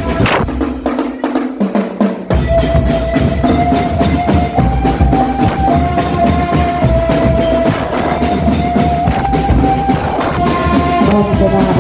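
Marching drum band playing: snare and bass drums beating a fast, steady rhythm under a melody of held notes.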